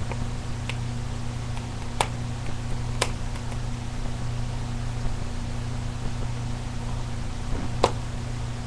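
Wood fire crackling, with a few sharp pops, the clearest about two, three and eight seconds in, over a steady hiss and a low hum.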